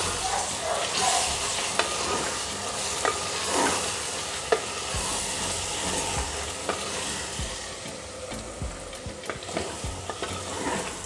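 Prawns and masala sizzling as they fry in an aluminium pressure cooker while a wooden spatula stirs and scrapes through them, with scattered short knocks of the spatula against the pot.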